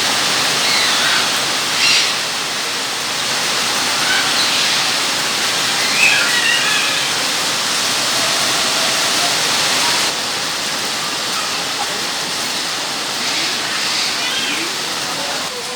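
Steady rush of falling water, with faint short chirps now and then.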